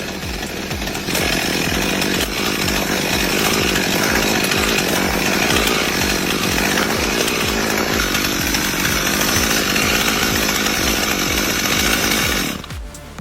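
A chainsaw running loudly, over background music with a steady beat. The saw sound stops suddenly near the end.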